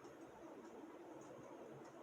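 Hunter Eclipse 44-inch ceiling fan running on high speed: a faint, steady whir with light, irregular high ticks a few times a second.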